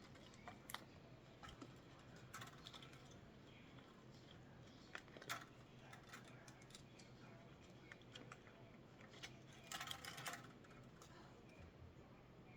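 Faint, scattered clicks and light rattles of small parts being handled, with a quicker run of clicks about ten seconds in, over a steady low hum.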